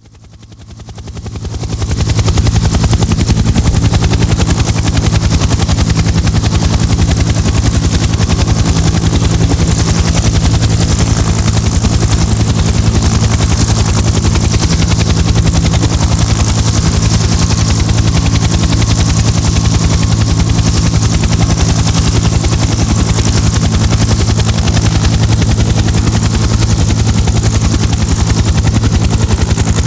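Helicopter in flight: steady rotor beat and engine noise, fading in over the first two seconds and then holding steady.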